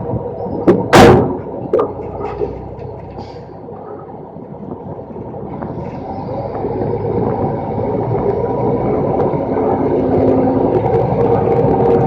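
Rolloff truck's diesel engine running, growing steadily louder over the last several seconds. A loud sharp bang, with a couple of smaller knocks, comes about a second in.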